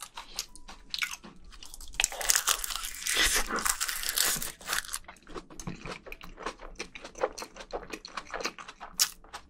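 Close-miked eating: a loud, crunchy bite into a mouthful of rice wrapped in seaweed, about two seconds in, followed by wet chewing with many short mouth and lip smacks.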